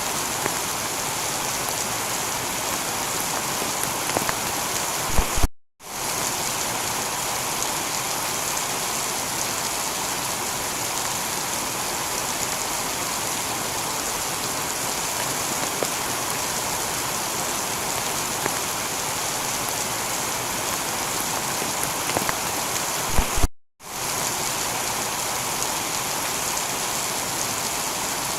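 Steady heavy rain falling on a tiled roof. The sound drops out to silence for a split second twice, about 18 seconds apart, with a couple of clicks just before each gap, as at the seam of a looped recording.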